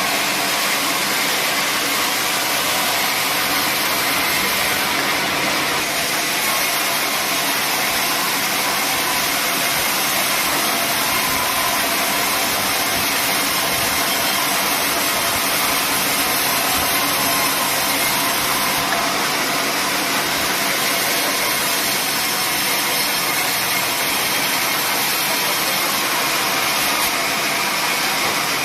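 Sawmill machinery running steadily: a loud, constant mechanical whir without pauses or breaks.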